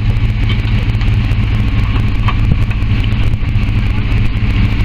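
Vehicle engine idling steadily, a constant low hum with no revving.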